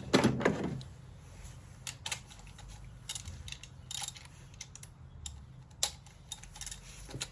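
Hand tools working on the engine's 10 mm bolts: a loud clatter right at the start, then scattered sharp metallic clicks and clinks.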